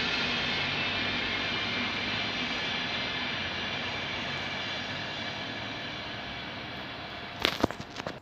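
A train running past with a steady rumble that slowly fades as it moves away. Near the end there are a few sharp knocks, the loudest sounds here.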